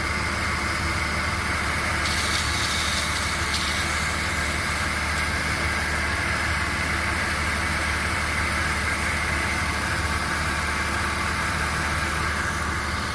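Porsche Boxster 2.7 flat-six idling, with a steady higher-pitched noise from the serpentine belt drive that the owner takes for either the power steering pump or the AC compressor.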